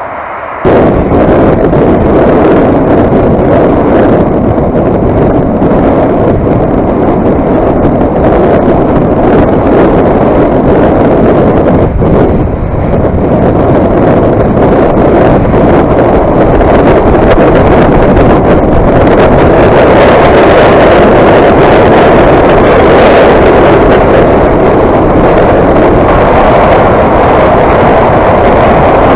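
Motorcycle riding at speed, its engine and road noise buried under heavy wind buffeting on the microphone. The noise starts abruptly under a second in and stays loud and steady.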